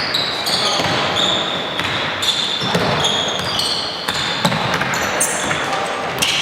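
Gym sounds of a basketball game in play: shoes squeaking briefly and often on the court floor over the ball bouncing and the hall's steady background noise.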